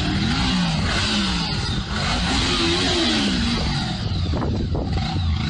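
An engine running with its pitch rising and falling several times, over a dense hissing, rattling noise.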